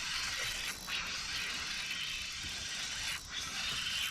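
Fishing reel being cranked in steadily while fighting a hooked fish, a continuous whirring hiss with a few brief breaks between cranks.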